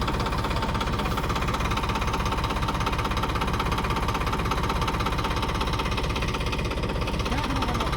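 Diesel tractor engine running steadily at low revs, with an even, rapid knocking beat.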